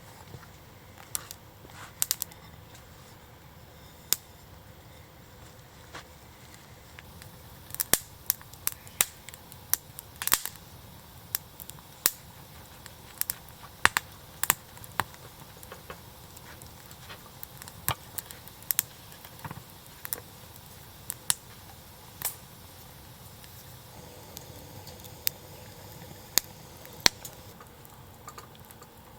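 Wood campfire crackling: irregular sharp pops and snaps, sometimes in quick clusters, over a faint steady background.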